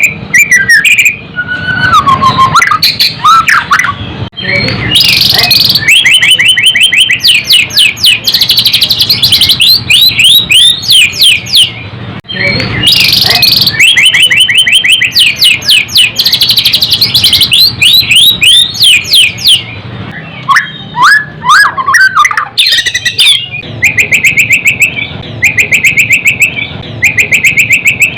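White-rumped shama (murai batu) singing loudly: fast strings of repeated sweeping, chattering notes in phrases of a second or two, with short breaks between them. It is the aggressive, provocative song played to spur a kept murai into fighting form.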